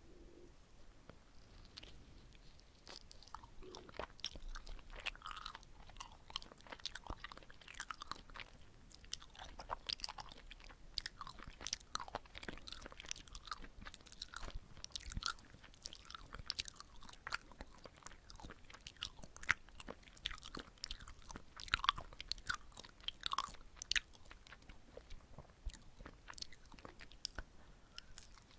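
Close-up chewing of a sticky glutinous rice cake filled with red bean paste: soft, wet, squishy mouth sounds and lip smacks, irregular and continuous. The first couple of seconds are quieter before the chewing picks up.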